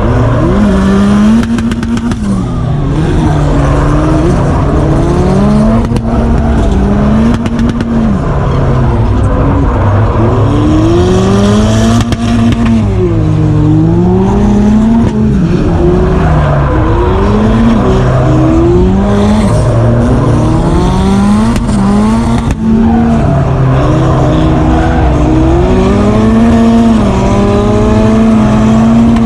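Drift car engine revving hard and rising and falling again and again with the throttle, held at high revs for stretches, during a tandem drift run.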